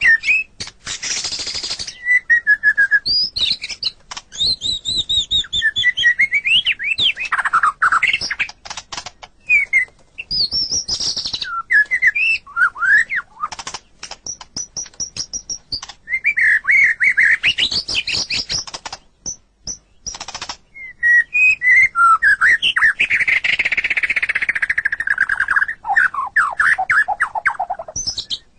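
White-rumped shama (murai batu) singing a long, varied song of rapid chirps, clear whistled glides and harsh rasping notes, with only brief pauses.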